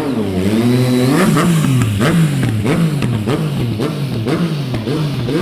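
Motorcycle engine revved up and down over and over, about twice a second, in a quick rhythmic rise and fall of pitch.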